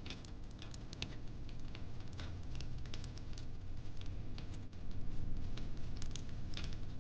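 Wood fire crackling: irregular sharp pops and snaps, thicker about five seconds in, over a low steady rumble.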